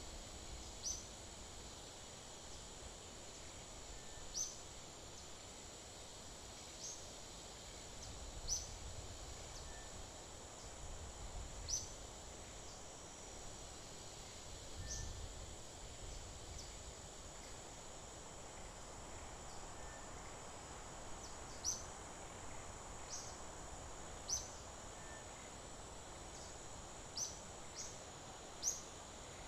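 Nature ambience: a steady, high-pitched insect hum with short, high chirps repeating irregularly every one to three seconds.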